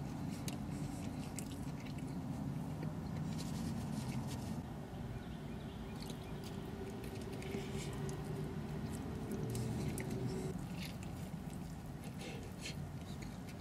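A man biting into and chewing a burger, with small clicks and crackles, over a steady low hum.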